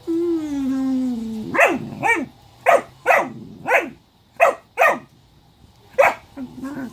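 A dog gives a long whine that falls in pitch, then barks about eight times in short, sharp yaps, excited while spinning after its own tail.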